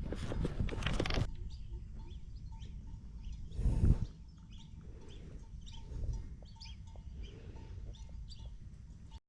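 Birds chirping, short calls repeated every so often over a steady low rumble. There is loud clattering noise in the first second or so, and one loud thump about four seconds in.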